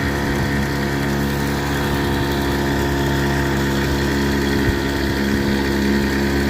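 An engine running at a steady speed, a constant even hum that neither rises nor falls.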